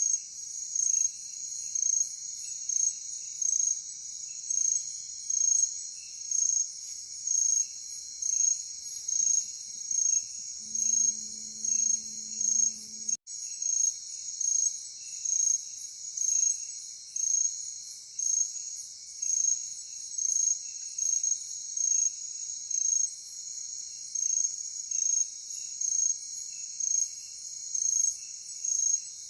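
Night insects chirping: a steady high trill that pulses louder about once a second over a lower, quicker chirping. The sound cuts out for an instant about 13 seconds in.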